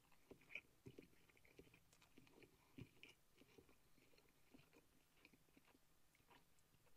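Faint chewing of a mouthful of crispy fried chicken, with soft scattered clicks and crunches, the loudest about half a second in and again near three seconds.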